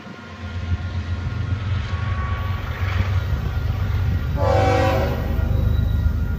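Diesel locomotive-hauled train approaching, its low engine rumble growing louder, with one short horn blast about four and a half seconds in.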